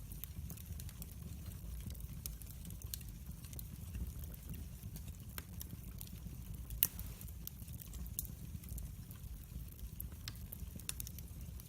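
Wood fire burning in a fireplace: a steady low rumble of flames with irregular sharp crackles and pops, one louder pop near the middle.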